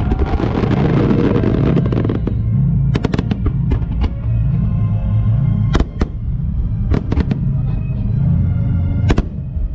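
Fireworks display set to loud music over loudspeakers: a rushing crackle in the first couple of seconds, then a string of sharp shell bursts from about three seconds in.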